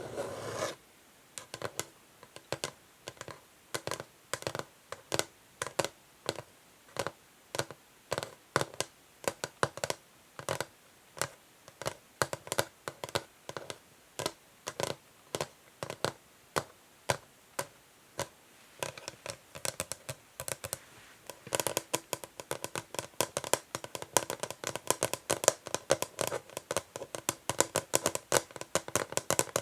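Natural fingernails tapping on an old wooden chess board, at first in slow, separate taps about two a second, then much faster and denser taps from about two-thirds of the way through.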